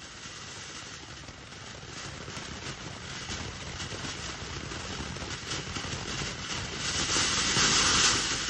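A firework burning with a steady hiss and dense crackling, swelling to its loudest near the end.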